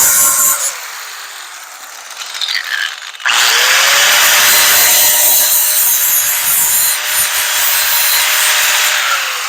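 Hand-held power grinder with an abrasive wheel grinding the sheet-metal truck bed down to bare metal on the low spots of a dent, ready for pull tabs. It stops and spins down just after the start, starts again with a rising whine about three seconds in, grinds steadily, and winds down near the end.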